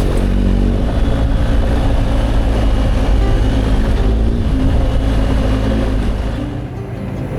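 Adventure motorcycle engine running under way while riding, steady and loud, easing off slightly near the end.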